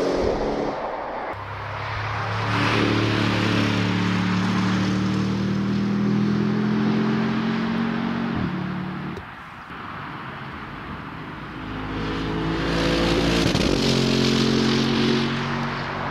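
Audi RS7's 4.0 TFSI twin-turbo V8 accelerating hard in a long pull, its note climbing slowly. The note drops away about halfway through, then comes back loud for a second pull with a brief break for an upshift near the end.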